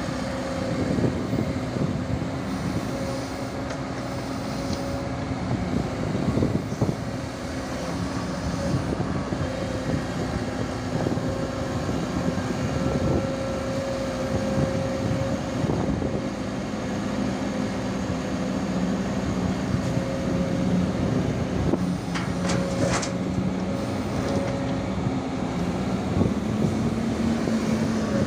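Komatsu PC205-10M0 hydraulic excavator running steadily under work, its diesel engine and hydraulics giving a continuous drone with a steady tone that shifts in pitch in the second half. A short cluster of sharp knocks comes about 22 seconds in.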